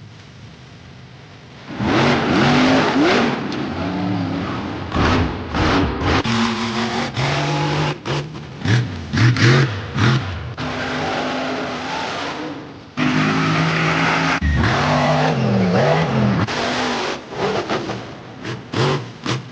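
Monster truck engines revving hard and letting off again and again, the pitch climbing and falling with each burst. They come in suddenly about two seconds in, after a quieter start, and cut in loud again about thirteen seconds in.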